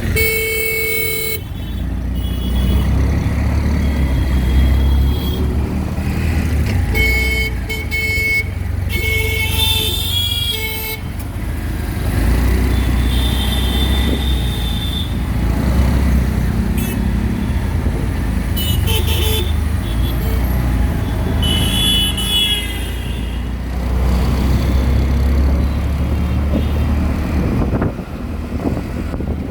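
Auto-rickshaw riding through busy street traffic: a steady low engine rumble with vehicle horns honking again and again, a long blast at the start and a run of short toots a quarter of the way in.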